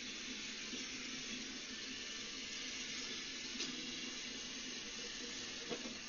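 iRobot Roomba Max 705 robot vacuum running, a steady whooshing hiss of its suction fan over a low hum, with a couple of small knocks.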